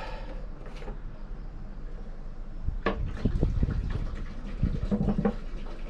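Used engine oil being pumped out of a narrowboat's engine with a hand pump and running into a tub, with a run of irregular knocks and thuds from about three seconds in.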